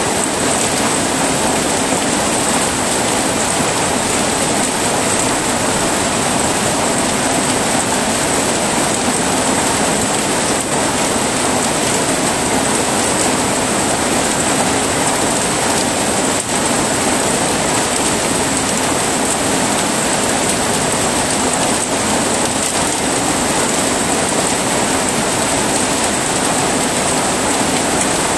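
Heavy rain falling steadily, a dense unbroken hiss with no thunder.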